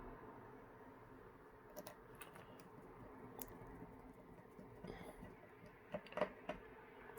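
Faint, scattered small clicks and taps of a screwdriver and tiny screws as the screws are put back into a laptop's screen assembly, the loudest few coming about six seconds in.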